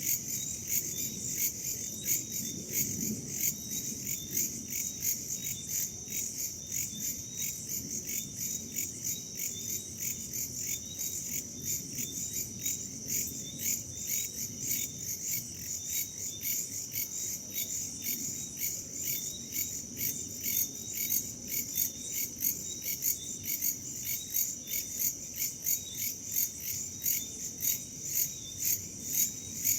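Chorus of crickets and other insects, a steady high trill with an even pulsing beat about two to three times a second, over a low rumble of wind.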